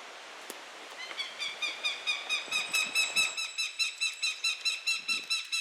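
A hawk calling from the treetops: a fast, chattering series of sharp, high notes, about five or six a second, starting about a second in and going on without a break.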